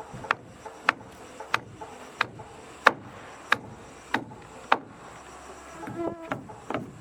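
Steady hammering, about one sharp blow every two-thirds of a second, as planks are nailed down, over a faint high insect drone. A brief pitched sound comes near the end.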